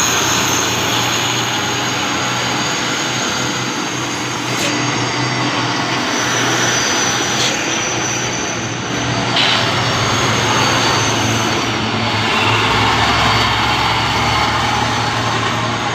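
Diesel truck engine running steadily, with a faint high whine above it.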